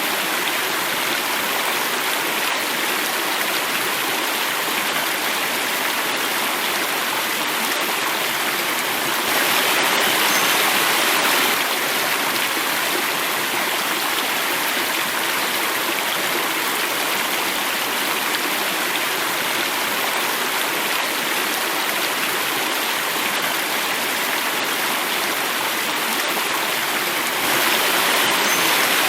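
A small waterfall: water flowing and falling in a steady rush. It swells a little louder twice, about ten seconds in and near the end.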